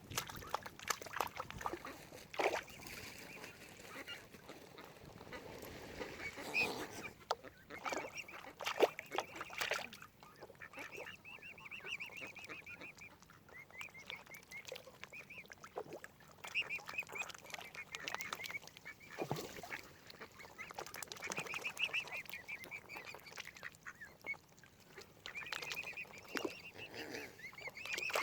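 Waterfowl calling: a series of drawn-out, wavering honking calls, mixed with quacks and sharp clicks.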